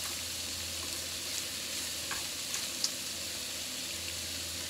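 Sliced pork and shredded cabbage sizzling in a hot frying pan as they are stir-fried with long wooden cooking chopsticks, with a few light clicks.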